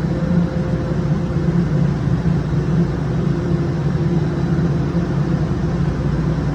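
Toronto subway train making a steady low hum, with no change in pitch or level.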